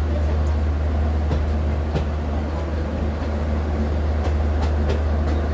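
Steady low rumble of a moving train heard from inside the coach, with a few faint clicks scattered through.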